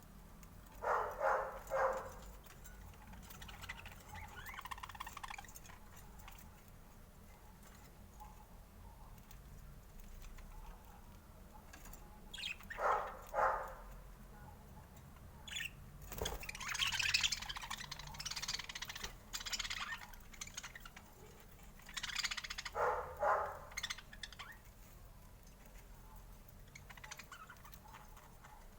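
Budgerigars calling: short calls in pairs that come three times, with a longer spell of higher twittering chatter in the middle.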